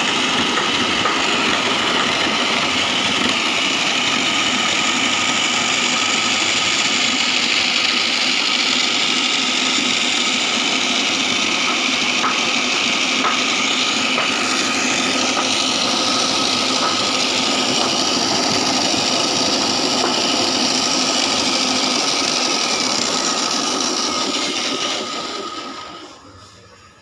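A foam-shredding machine running steadily, its blades chopping foam, then running down and falling quiet near the end.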